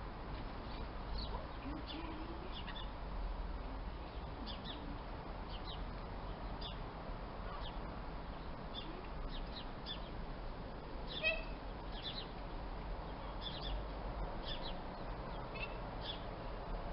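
Small birds chirping: short, high calls scattered through, with one louder run of notes about eleven seconds in, over a steady background hiss.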